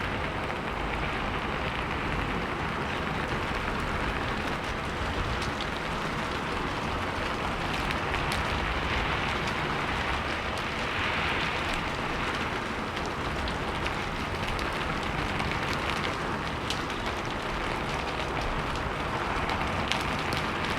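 Steady rain falling, a continuous even hiss with scattered individual drop ticks.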